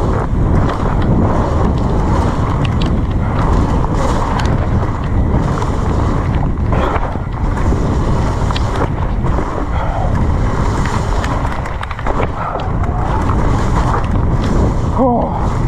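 Wind rumbling on the microphone of a camera riding along on a mountain bike descending a wet trail, mixed with tyre noise and scattered knocks and rattles from the bike over rough ground.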